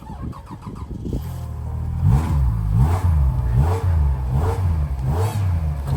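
Car engine revving up and down over and over, about once a second, as the driver rocks the car to free it from deep snow with the wheels spinning. It starts quieter and grows louder from about two seconds in.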